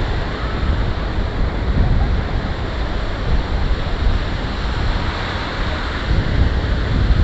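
Steady ocean surf washing onto the beach, with wind rumbling on the microphone.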